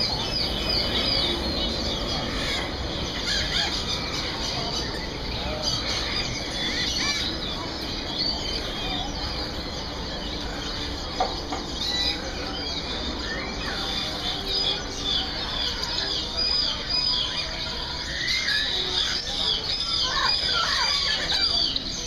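Many caged birds chirping and whistling at once: a dense, continuous chorus of short high calls, with a single sharp knock about halfway through.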